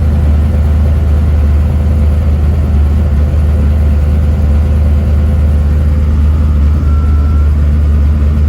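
Twin-turbo LS1 V8 idling steadily, a loud, even low drone with no revs.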